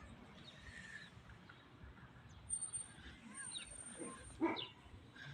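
Short animal calls: a few faint ones with gliding pitch, then one louder call about four and a half seconds in.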